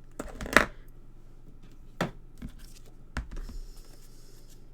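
Craft tools and paper being handled on a desk: a few sharp taps, the loudest about half a second in, then a brief papery rustle about three and a half seconds in.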